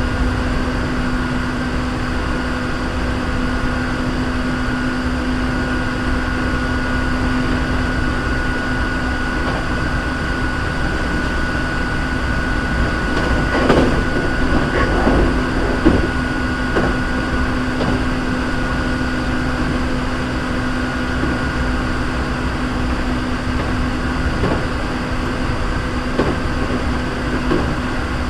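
Hankyu 3300 series electric train running at speed: a steady rumble with a constant whine. About halfway through comes a short spell of knocks and rattles.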